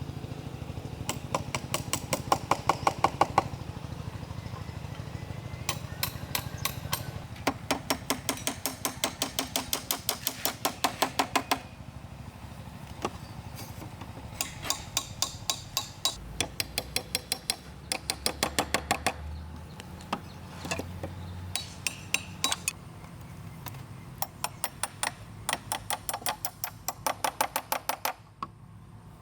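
Hammer striking bamboo in runs of quick, even blows, about five a second, with short pauses between the runs.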